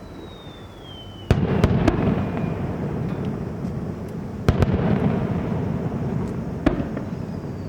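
Aerial fireworks shells bursting: three sharp bangs about three seconds apart, each followed by crackling and a rumbling echo. A thin whistle falls in pitch before the first bang, and another starts near the end.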